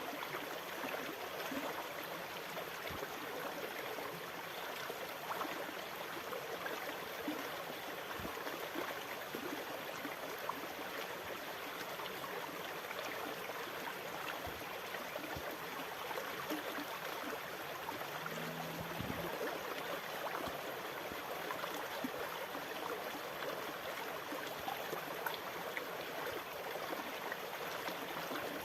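Steady rushing, bubbling water that holds an even level, with no rise and fall of breaking waves.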